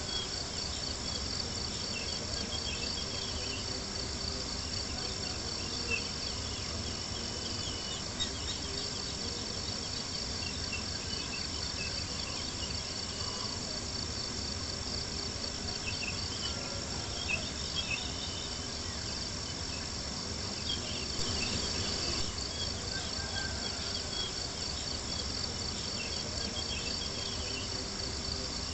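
Crickets chirping in a steady, fast high trill, with a few sharp pops from a crackling campfire and a soft low rush underneath.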